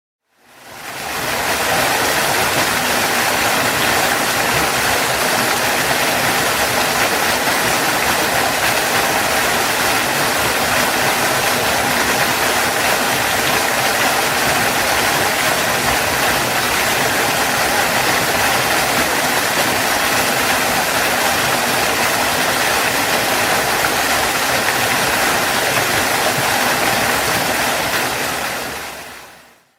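Waterfall: a steady, even rush of falling water. It fades in over the first second and fades out to silence at the very end.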